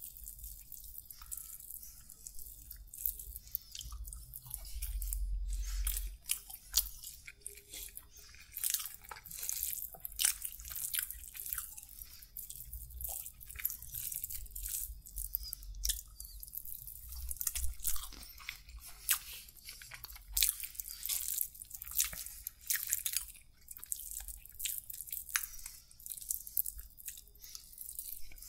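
Close-miked chewing and wet mouth sounds of someone eating kili parotta, a flaky flatbread in meat curry, by hand: irregular smacks and clicks, several a second.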